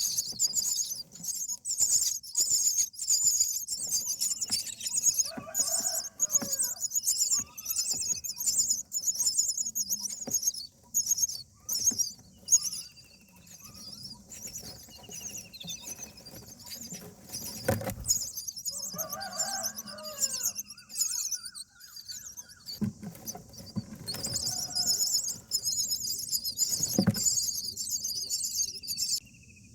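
Common myna nest: rapid, high-pitched chattering calls, typical of the chicks begging, that break off and start again several times, with short falling whistles and a few lower adult myna calls. There are two sharp knocks, about halfway through and near the end.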